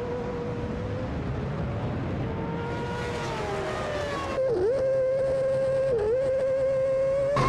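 A high-performance racing engine running at high revs with a steady pitch. The pitch dips briefly twice, and the sound gets louder about four and a half seconds in.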